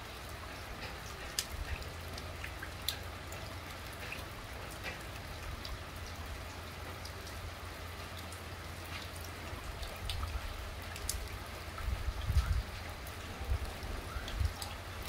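Steady light rain falling on a garden, with scattered individual drops ticking on the ground and leaves. A low rumble swells in the last few seconds.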